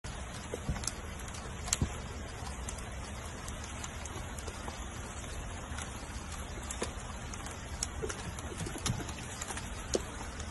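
Steady rain pattering on a wet wooden deck, with scattered sharper drips. A puppy gives several short, soft howls.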